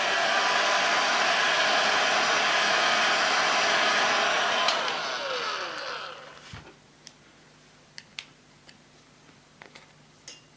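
A handheld hot-air blower runs steadily, heating the adhesive so the plastic strip lets go of the old laptop screen. About five seconds in it is switched off and its fan winds down with a falling whine. A few light clicks and taps follow.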